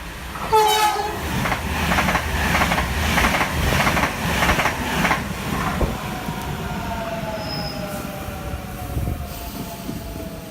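A train passing: a short horn toot about half a second in, then a rhythmic clatter of wheels over rail joints, about three strokes a second, then a slowly falling whine as it moves away.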